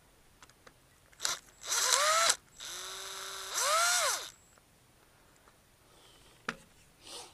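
Cordless Milwaukee power tool run in short trigger pulls: a brief blip, a half-second run at full speed, then a slow steady run that speeds up and winds down.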